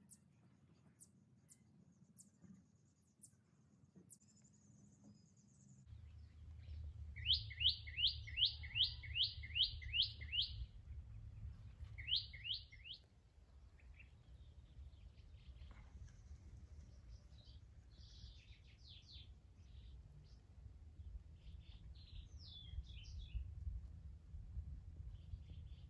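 Birds chirping: a loud, rapid run of about ten repeated notes, a shorter run a couple of seconds later, then scattered calls. A low steady rumble sits underneath from about six seconds in.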